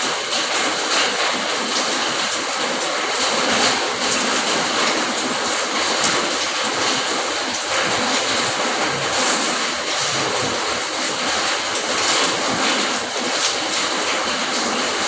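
Steady rain falling: an even, continuous hiss with faint scattered drop taps.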